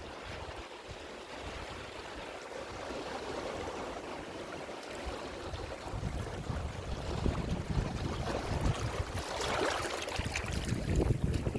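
Ocean surf washing ashore: a steady hiss of breaking water with a low rumble, swelling louder in the second half as a wave builds and breaks near the end.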